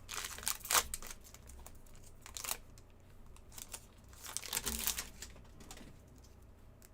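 Trading cards and a foil pack wrapper being handled: crinkling, with cards clicking and sliding through the fingers in short flurries during the first second, about two and a half seconds in and about five seconds in.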